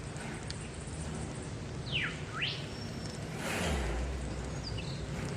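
A bird calls twice in quick succession, two sharp sweeping notes, over a steady low rumble; a louder rushing swell passes about three and a half seconds in.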